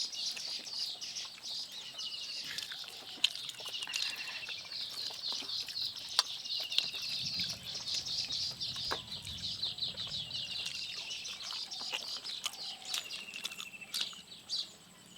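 Small birds chirping continuously in rapid trills, with scattered short clicks and taps over them.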